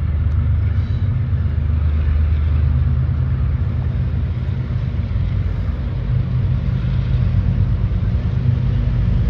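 Diesel locomotives of a CSX coal train running with a steady, loud low rumble.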